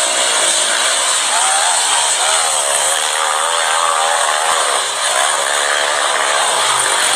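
Motocross bike engines running at high revs, a buzzing note whose pitch wavers up and down as the riders work the throttle.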